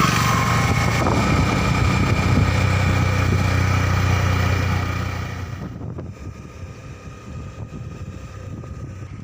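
Motorcycle riding along, its engine and road noise mixed with wind on the microphone. The sound drops away sharply about five seconds in, as the bike eases off and slows.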